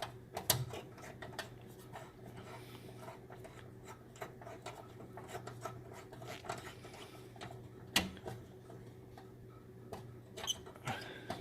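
Faint scraping and small clicks of a small appliance light bulb's screw base being turned into its socket, with a sharper click about half a second in and another about eight seconds in, over a steady low hum.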